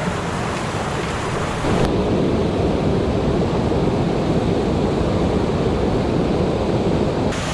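Mountain stream water rushing over rocks, a steady loud rush. About two seconds in it abruptly turns louder, deeper and duller, and near the end it switches back to the brighter rush.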